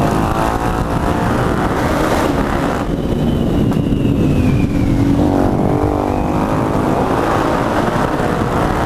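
Motorcycle engine running under way, its revs sinking about four to five seconds in and then climbing again, with heavy wind rumble on the microphone.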